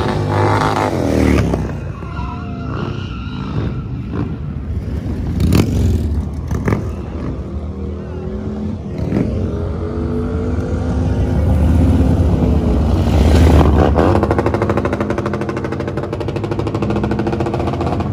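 Motorcycle engines running and revving, their pitch rising and falling with the throttle, a few sharp cracks in the middle, and the loudest rev about three-quarters of the way through.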